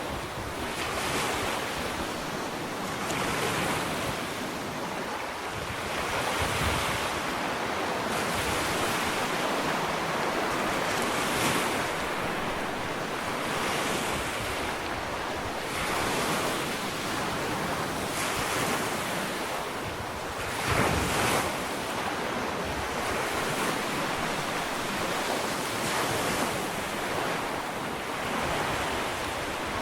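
Ocean waves washing onto a sandy beach, a continuous surf hiss that swells and eases every couple of seconds, with a stronger wave breaking about two-thirds of the way through. Some wind noise on the microphone.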